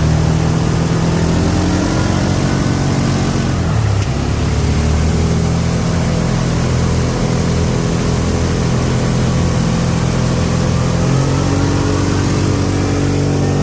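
Vehicle engine running steadily under throttle, its pitch shifting about four seconds in and again near eleven seconds.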